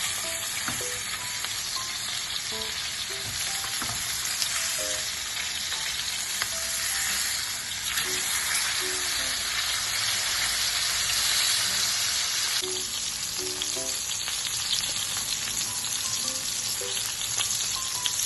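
Floured chicken pieces frying in olive oil and butter in a pan: a steady, dense sizzle with fine crackling, a little louder in the middle stretch.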